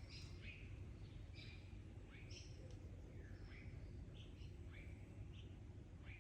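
Faint bird calls: many short high chirps and quick sweeping notes, a few each second, over a steady low rumble.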